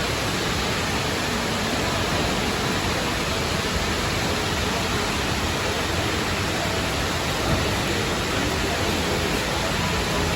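Steady rush of falling water from a large indoor waterfall: an even, unbroken hiss.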